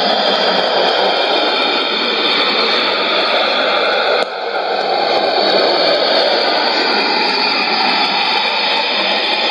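Sony ICF-2001D shortwave receiver tuned to 5905 kHz, putting out a loud, steady rushing noise with no voice or music: the strange test sound on the frequency. The level dips sharply about four seconds in, then recovers.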